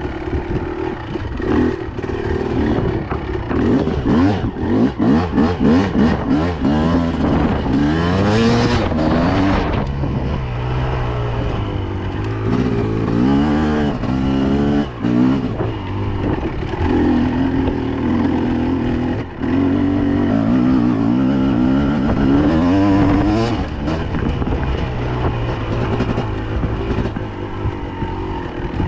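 Dirt bike engine under way, its pitch repeatedly rising and dropping back as it is revved and shifted, with a steadier stretch near the middle.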